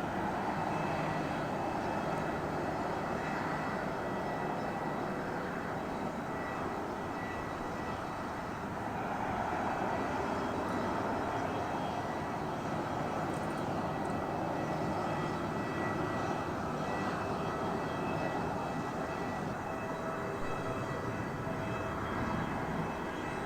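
Jet airliner engines running steadily: a continuous roar with a thin, steady whine on top.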